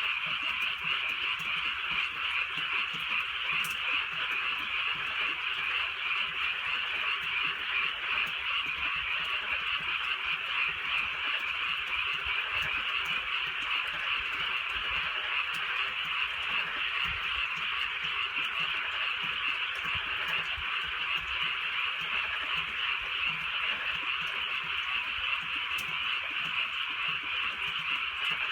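A dense chorus of many frogs calling at once, a steady pulsing mass of overlapping croaks that holds unchanged throughout.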